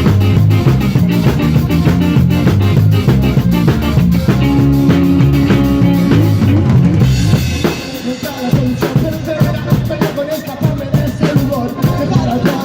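A band playing live, led by drum kit and a dense bass line, during a soundcheck. About seven and a half seconds in, after a cymbal crash, the low bass drops away, leaving drums and lighter instruments.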